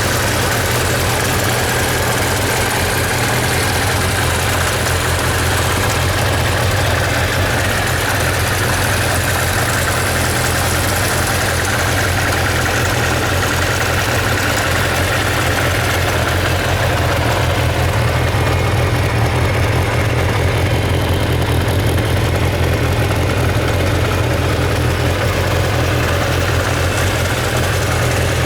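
Kawasaki Zephyr 750's air-cooled inline-four engine idling steadily.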